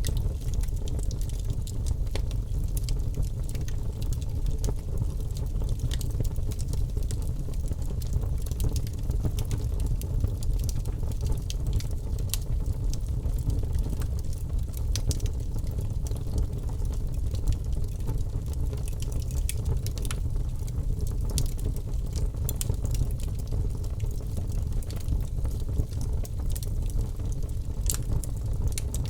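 Wood fire in a fireplace crackling, with irregular sharp snaps and pops over a steady low rumble.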